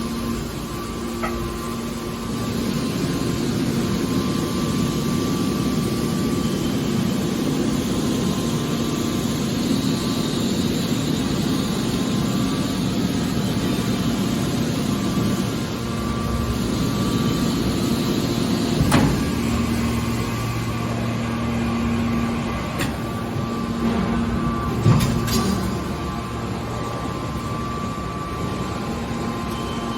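Hydraulic scrap metal baler running: a steady hum from its pump and motor, with two sharp metallic knocks, one about two-thirds of the way in and another a few seconds later.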